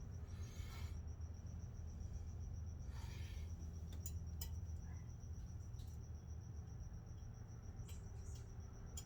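A faint, steady, high-pitched pulsing trill over a low hum, with a few light clicks about four seconds in and again near the end, and soft breaths.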